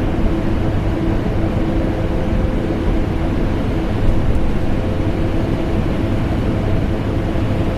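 Vacuum cleaner running steadily, layered with air-conditioner noise: a continuous deep rushing sound with a steady motor hum, unchanging throughout.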